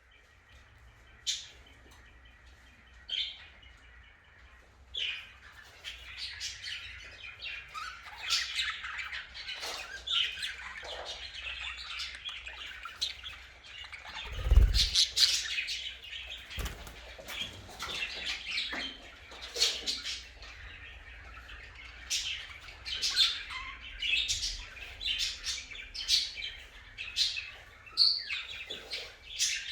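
Budgerigars chirping and chattering: a few scattered calls at first, then busy warbling chatter with sharp chirps. Two low thumps come around the middle.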